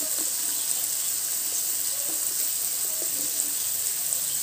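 Steady sizzle of small onions, garlic and tomatoes frying in sesame oil in a kadai.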